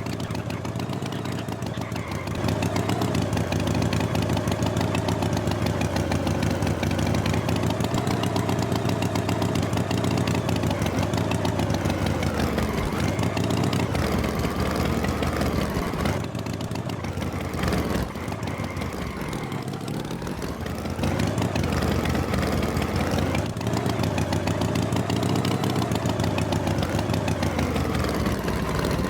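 Tractor engine running steadily at a low, even pitch; about twenty seconds in, the engine note sags and drops, then climbs back up to its steady running pitch.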